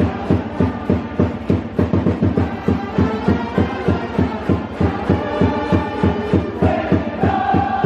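Baseball cheering music: a drum beaten in a fast, even rhythm of about four to five strokes a second, with sustained horn-like notes over it.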